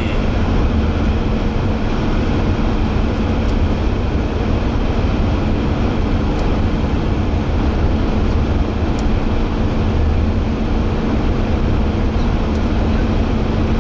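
Road noise inside a moving car: a steady low rumble of tyres and engine with a faint steady hum.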